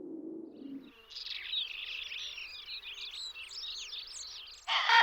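A low steady drone stops about a second in and gives way to many small songbirds chirping and twittering together. Near the end a loud harsh bird call cuts in over them.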